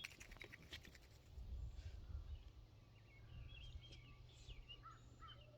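Near silence outdoors, with faint, short bird chirps scattered through the middle and latter part over a low background rumble.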